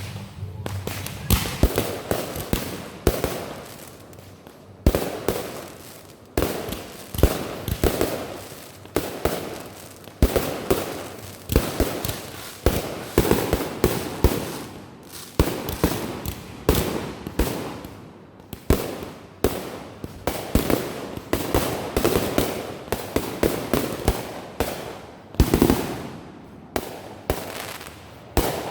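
Backyard consumer fireworks going off in quick succession: sharp bangs about every second, many trailed by crackling, some in rapid clusters.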